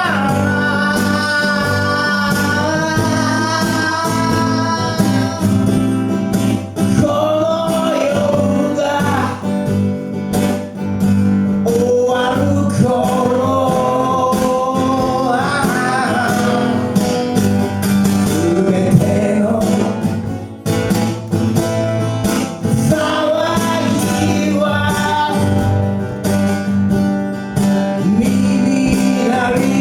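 Live band music: guitar accompaniment under a held, bending melody line, sung or played as a lead.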